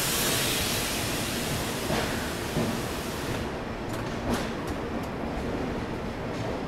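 Passenger train running along the track: a steady rumble with a hiss that drops away about halfway through, and a few sharp clicks in the second half.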